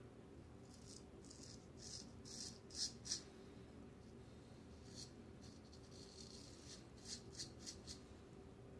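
Faint, short scrapes of a razor cutting coarse stubble on a final pass against the grain: about six strokes in the first three seconds, one more in the middle, and a quick run of four or five near the end.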